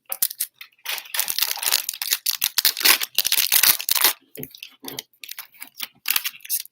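Crinkly trading-card packaging being torn open and crumpled, a dense run of crackling and tearing in the middle that turns to scattered crinkles.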